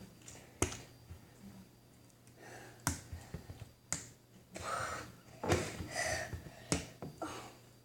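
A handful of sharp clicks and snaps, about five spaced roughly a second apart, from hands working slime and its small plastic container.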